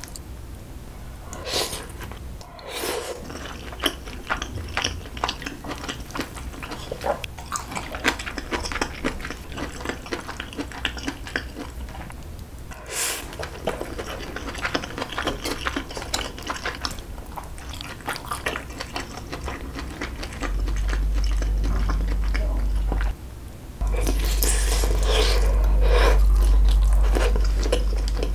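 Close-miked eating sounds: chewing mouthfuls of rice and braised kimchi with pork back ribs, with chopsticks clicking against a bowl now and then. A steady low rumble comes in about twenty seconds in, drops out briefly, then returns louder.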